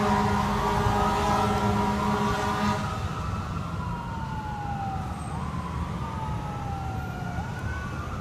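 Fire engine air horn blaring in one long blast that stops about three seconds in, over the truck's siren. The siren then carries on alone in a slow wail, its pitch sweeping down and back up twice, and the whole sound fades.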